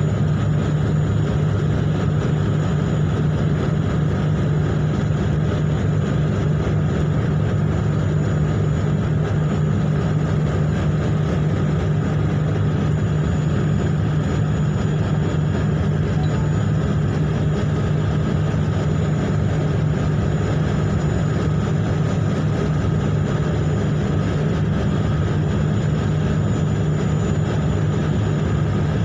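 Ship engines running with a steady low drone that does not change, with a faint thin high whine above it.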